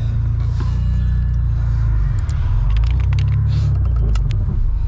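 Single-turbo BMW 335i's N54 3.0-litre straight-six running at low revs as the car pulls away, a deep steady rumble heard from inside the cabin, with a few light clicks over it.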